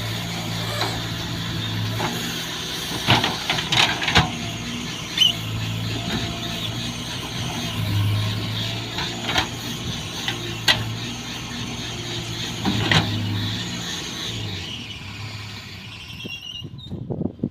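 A heavy farm machine's engine running steadily, with sharp metallic clanks and squeals every second or two from the working machinery; the sound dies away near the end.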